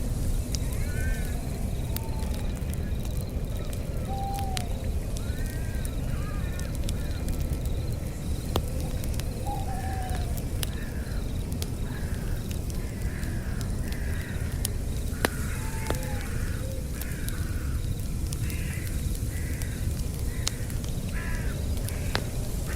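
A campfire crackling over a steady low rumble, with birds calling repeatedly: a few short falling whistles and, from about halfway in, a run of quick harsh calls.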